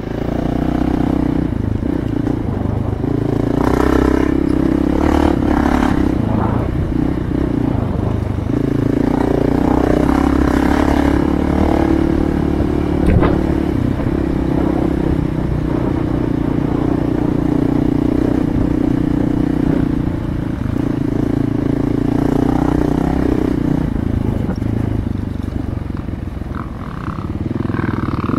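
Dual-sport motorcycle engine running under way on a dirt trail, heard close up from the moving bike. The engine note holds steady and eases off briefly a few times as the rider rolls off the throttle.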